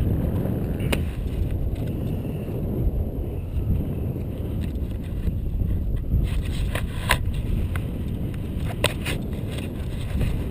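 An-2 biplane's nine-cylinder radial engine running steadily, heard inside the cabin as a heavy low noise, with a few short sharp clicks in the middle.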